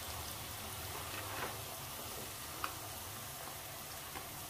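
Oily tomato masala frying in a pan with a steady sizzling hiss as chopped raw cauliflower is poured in, with a few light clicks from the falling pieces.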